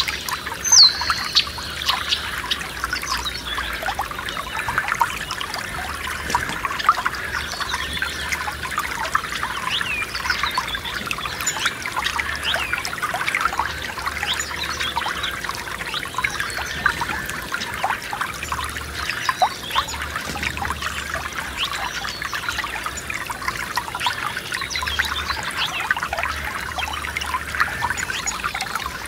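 Small forest stream trickling and burbling steadily over stones, with occasional bird chirps, one clear chirp about a second in.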